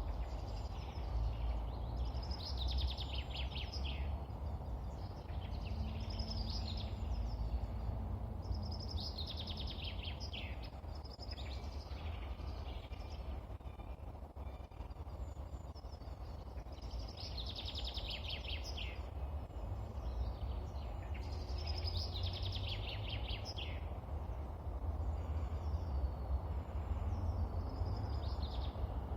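A songbird singing the same short, falling trilled phrase over and over, a new phrase every few seconds, over a steady low rumble.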